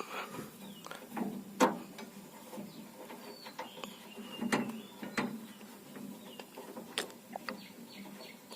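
Irregular sharp metal clicks and knocks of a spanner and loosened fittings being handled on a tractor engine's diesel feed pump, with a few louder knocks.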